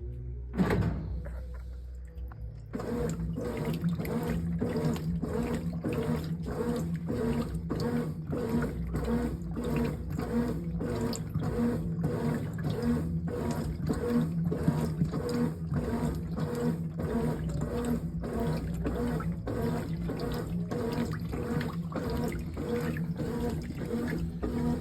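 Brastemp 18 kg top-load washing machine agitating clothes in water: the agitator churns back and forth in an even rhythm, a bit over two strokes a second, with water sloshing. A sharp click comes about half a second in, and the steady agitation sets in about three seconds in.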